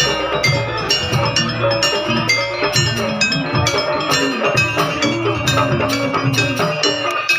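Live Javanese gamelan-style music: tuned metal percussion struck in a fast, steady stream of ringing notes over low drum beats.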